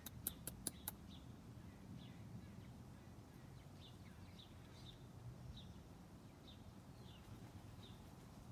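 Faint, scattered bird chirps, short and slightly falling in pitch, over a quiet background. There are four quick sharp clicks within the first second.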